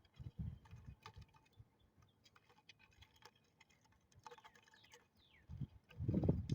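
Irregular light clicks and taps with a few low muffled thumps, the loudest cluster near the end: handling and rubbing noise on the recording device.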